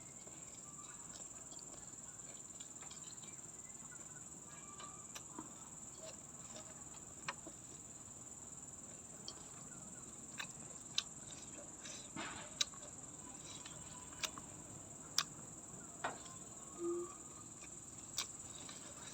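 Steady high-pitched insect chirring, with short sharp crunches at irregular intervals, more often in the second half, from biting and chewing raw vegetables.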